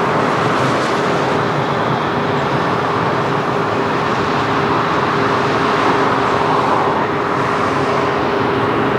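Rolls-Royce Trent 7000 turbofans of an Airbus A330-900 at takeoff power: a loud, steady rushing roar with a held tone under it.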